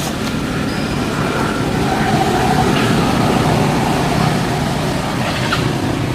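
Steady road traffic noise: motor vehicles running past in a continuous low rumble.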